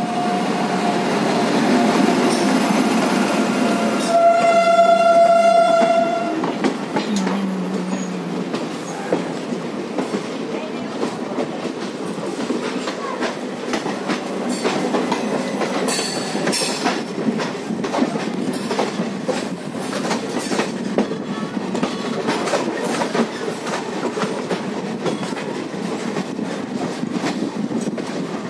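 Indian Railways passenger train passing close by, its coaches' wheels rumbling and clicking steadily over the rail joints. A train horn blows loudly for about two seconds, some four seconds in, after a fainter horn tone at the start.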